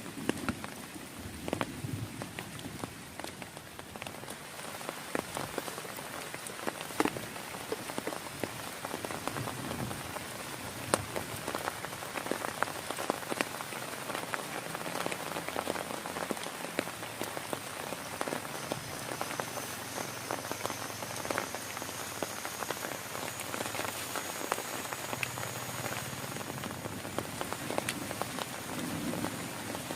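Heavy rain falling steadily onto a surface, a dense hiss studded with many sharp individual drop hits.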